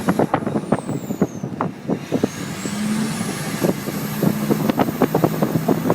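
A fire burning through farm co-op buildings, crackling and popping irregularly, over the steady low hum of an idling vehicle engine.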